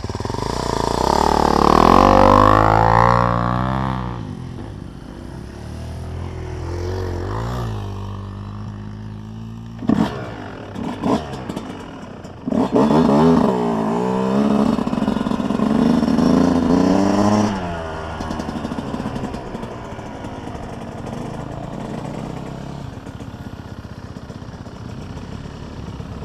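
Dirt bike engines revving, their pitch rising and falling as the bikes ride past. They are loudest about two seconds in and again for several seconds from about twelve seconds. A few sharp knocks come about ten seconds in, and a lower, steadier engine note follows.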